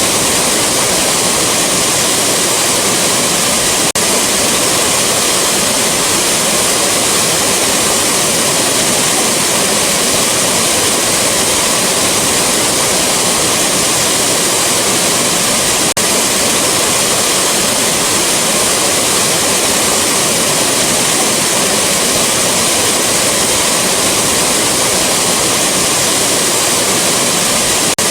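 Waterfall rushing steadily: a dense, even wash of falling water that does not change.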